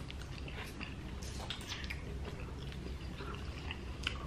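Close-miked eating: chewing and soft wet mouth sounds from soft food, with scattered light clicks and a sharper click near the end, over a steady low hum.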